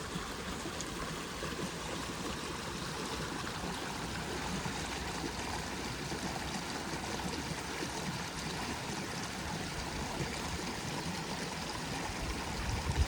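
Running water flowing steadily, with a brief low bump near the end.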